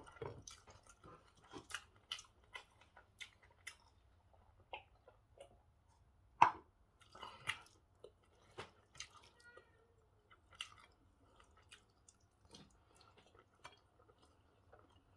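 A person chewing and eating pork stew and white rice close to the microphone: scattered wet mouth clicks and smacks, with one louder click about six and a half seconds in.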